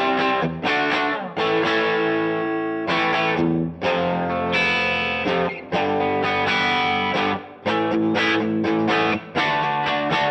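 Electric guitar played through a DVII guitar amp: chords held for a second or two each, with short breaks as the chords change.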